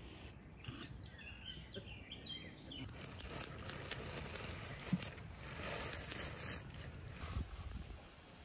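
Quiet outdoor yard ambience with small birds chirping, a run of short chirps about one to three seconds in.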